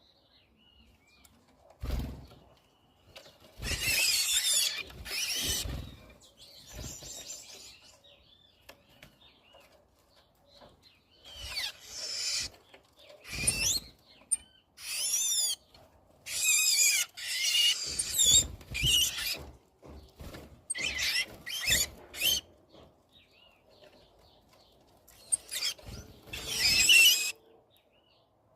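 Birds calling in a series of harsh, wavering, high-pitched calls, each about half a second to a second long, with short gaps between them.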